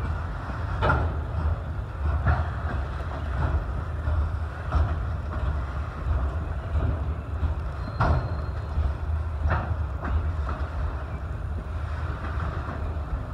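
Freight train of autorack cars rolling past, a steady low rumble with sharp clanks every second or two from the passing cars and their wheels. A brief high squeal about eight seconds in.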